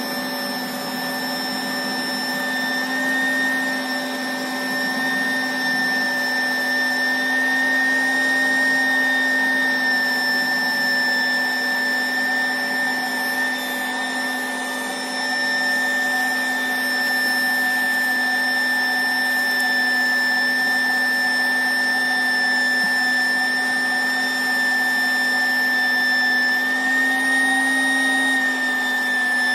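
Electric air pump running steadily with a constant motor whine, inflating an inflatable boat through a 3-metre hose.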